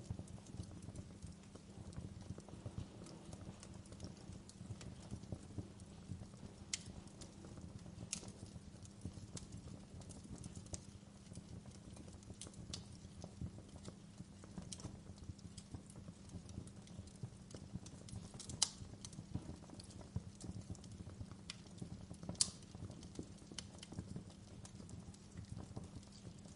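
Wood fire crackling: a steady low rumble of burning with irregular sharp pops and snaps, a few louder pops scattered through it.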